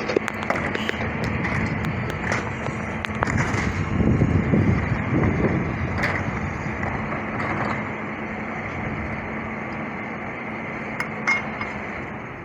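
Heil 5000 rear-loader garbage truck on an International chassis running, with a steady low hum and scattered clanks and knocks. It grows louder for a couple of seconds about four seconds in.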